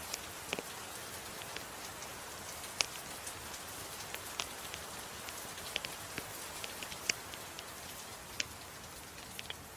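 Steady hiss of soft rain with scattered sharp pops and crackles from a wood fire in a fireplace mixed in.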